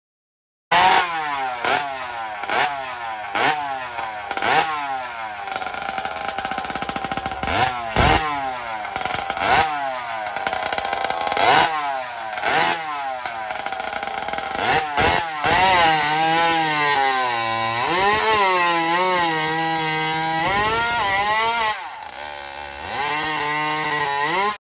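Vintage two-stroke chainsaw engine revved in quick blips about once a second, each one dropping back down. It is then held at high speed for several seconds with its pitch wavering up and down, sagging briefly near the end.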